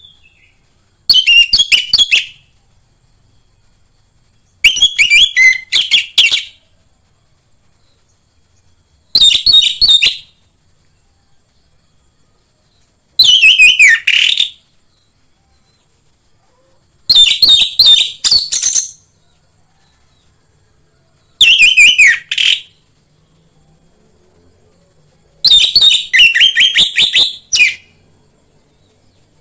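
Orange-headed thrush song played as a lure recording: seven loud, rapid warbling phrases of about a second to a second and a half each, one every four seconds or so, with quiet gaps between.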